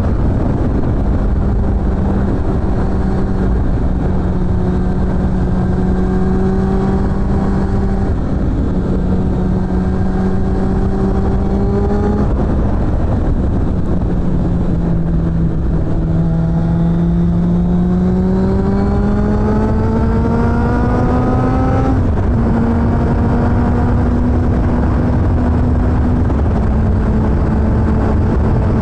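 Suzuki GSF600 Bandit's inline-four engine through a BOS aftermarket exhaust, under way at fairly steady revs with small pitch drops at about eight and twelve seconds. From about sixteen seconds the engine pitch rises steadily as it accelerates, then drops sharply at a gear change about six seconds later. A steady rushing noise runs underneath.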